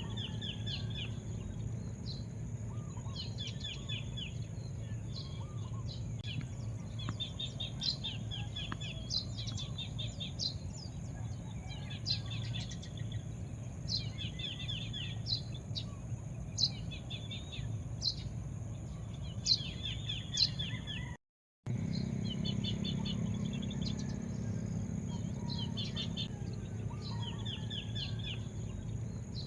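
Birds chirping in short, rapid repeated phrases, one after another, over a steady low rumble and a steady high hiss. The sound cuts out completely for a moment about 21 seconds in.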